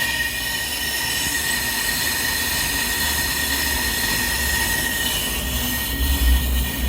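Ammco 4000 brake lathe running, a steady high-pitched squeal over a hiss of metal noise. A low motor hum comes up about halfway and grows louder near the end as the squeal fades.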